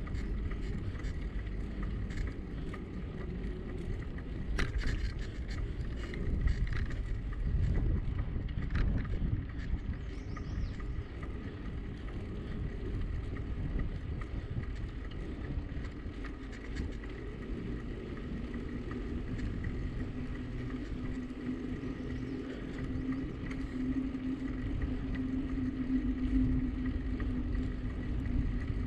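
Wind buffeting the microphone and tyre rumble from a moving bicycle, with scattered clicks and rattles in the first ten seconds. A steady low hum joins for the last ten seconds or so.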